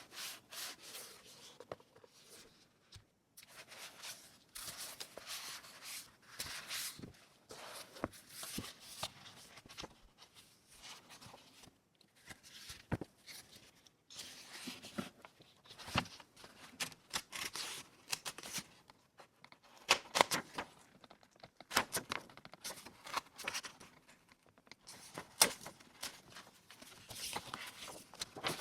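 Paper and scrapbooking materials being handled: irregular rustling, crinkling and crackling, with a few sharper snaps about two-thirds of the way in.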